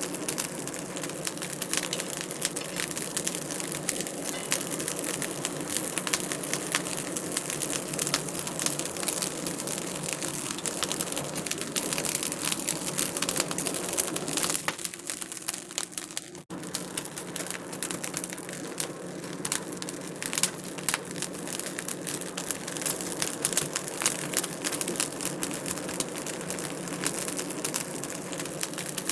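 Wood fire crackling and popping steadily in a fireplace, many small snaps over a soft hiss. The sound cuts out for a split second about sixteen seconds in.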